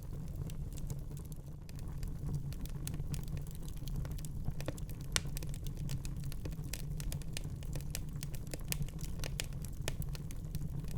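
Wood fire crackling in a fireplace: a steady low rumble of burning with many irregular sharp pops and snaps, busier from about two seconds in, with a louder pop near five seconds.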